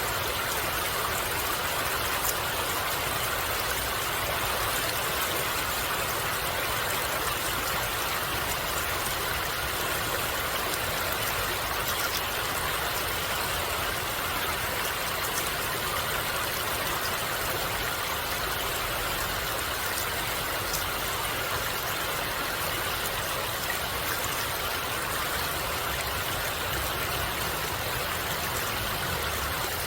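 Water flowing steadily in a stream, a continuous even rush with no change throughout.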